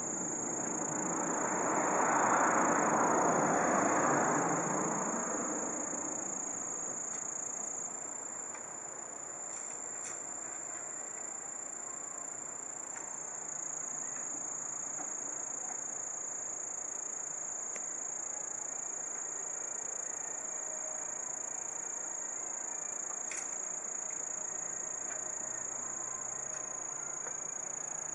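Insects singing, one steady unbroken high trill. In the first few seconds a broad rush of noise swells and fades away.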